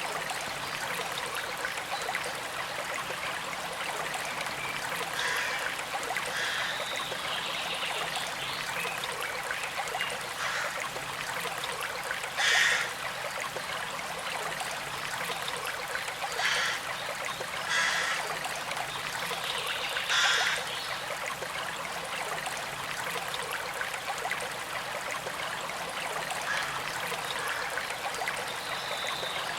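Small creek flowing, with a steady trickle and flow of water over stones. About four short, louder water sounds stand out near the middle.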